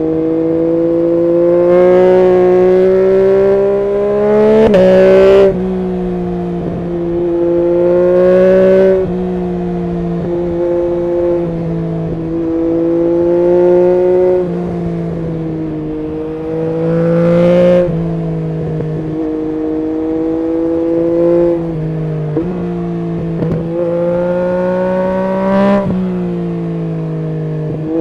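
Yamaha MT-09 SP's inline three-cylinder engine running through an Akrapovic full exhaust system while ridden. The revs climb gently several times, and each pull ends in a sudden drop in revs.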